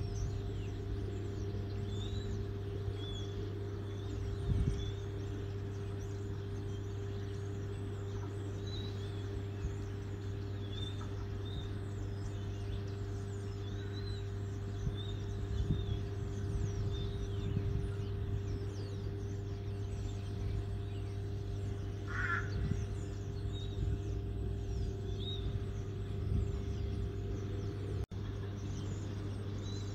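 Steady low hum at a railway platform while an electric train approaches, with small birds chirping over it again and again. A brief, louder higher-pitched sound comes a little past two-thirds through.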